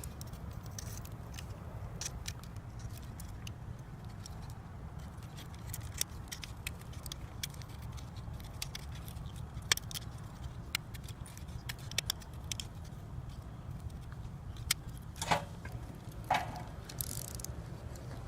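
Box-cutter knife blade shaving a stick of firewood into a feather stick: irregular small clicks and scrapes, with two louder, longer scrapes near the end, over a steady low rumble.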